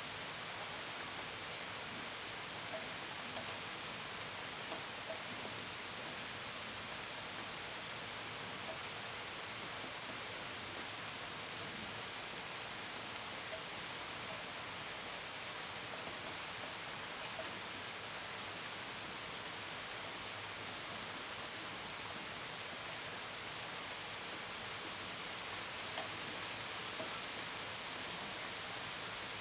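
Steady rain with scattered drips pattering on a surface, and faint cricket chirps repeating every second or so.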